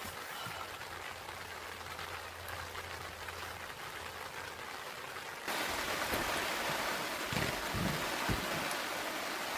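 Steady rain falling, which turns abruptly louder and brighter about halfway through, with a few dull low knocks near the end.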